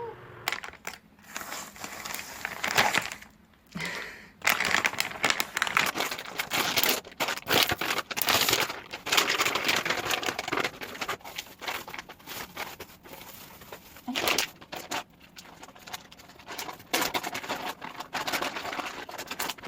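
Irregular crinkling and rustling, in bursts that come and go, with short pauses around four and fourteen seconds in.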